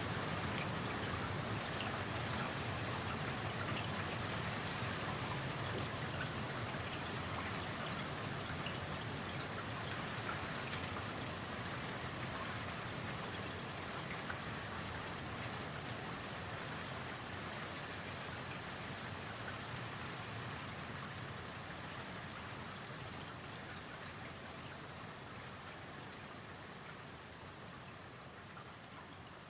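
Steady rain heard through an open window, with individual drops ticking through the hiss. It slowly fades out over the last half.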